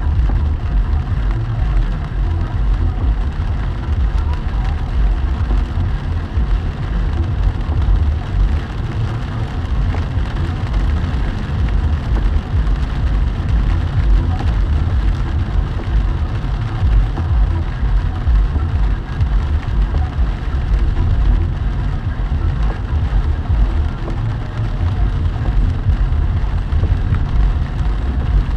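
Steady low rumble of a car driving along a road in heavy rain, with rain hissing on the car.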